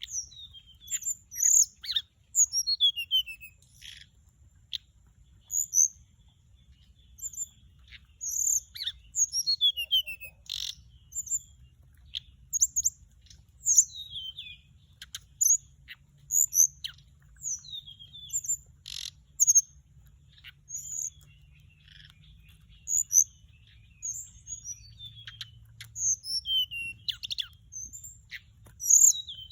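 An orange-breasted, white-bellied flycatcher singing: short, high, quick chirping phrases repeated every second or so, with a few sharp clicks in between.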